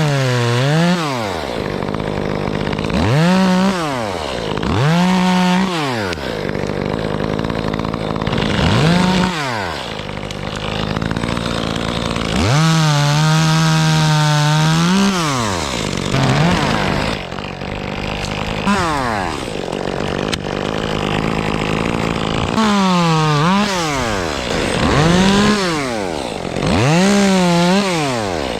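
Echo 2511-tes top-handle chainsaw's small two-stroke engine revved up and down over and over. There are short bursts of full throttle and one longer run of about three seconds at high revs midway, as it cuts into a pine.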